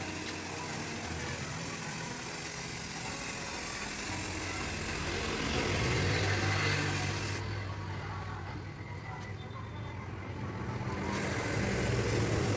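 Paint spray gun hissing as it sprays paint onto a fridge door. The spray stops about seven seconds in and starts again a few seconds later, over a steady low hum.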